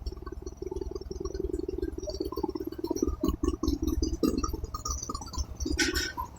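Low, uneven mechanical rumble with scattered clicks and clinks throughout, and a short bright rattle near the end.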